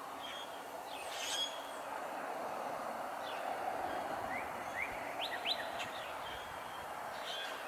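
Small birds chirping, with a run of quick rising chirps around the middle, over a steady background hiss.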